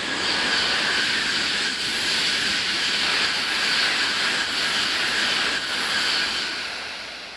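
Tokaido Shinkansen train going past at speed: a loud, steady rushing of air and wheel noise, with a high hiss on top, that holds for about six seconds and then fades near the end.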